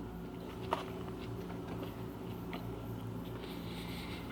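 Faint chewing and biting sounds of a bacon sandwich being eaten, with one sharp click about a second in, over a steady low electrical hum.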